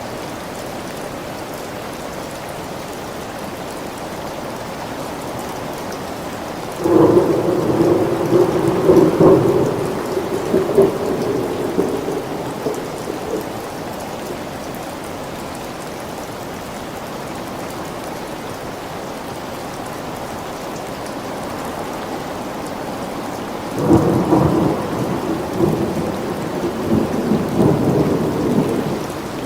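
Steady rain falling, with two rolls of thunder: one cracks in about a quarter of the way through and rumbles for several seconds, and another starts near the end.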